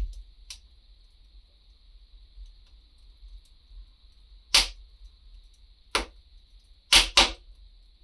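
Wood fire crackling: a few sharp, separate pops from the burning logs, a small one about half a second in, loud ones about four and a half and six seconds in, and a quick pair near the end, over a faint steady hiss.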